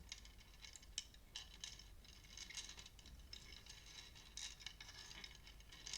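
Near silence with a few faint, scattered light clicks and ticks.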